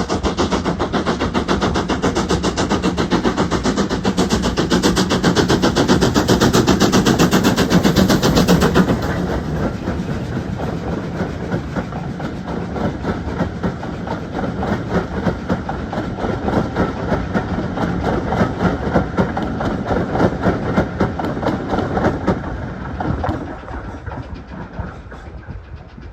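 GWR Hall-class 4-6-0 steam locomotive 7903 Foremarke Hall working hard, its exhaust a rapid, even run of sharp beats. The beats are loudest over the first nine seconds, then drop somewhat and fade away near the end.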